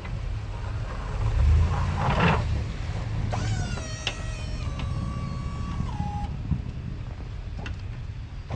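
A vehicle engine running with a steady low rumble. In the middle a whine rises, holds level for a couple of seconds, then steps down in pitch and cuts off.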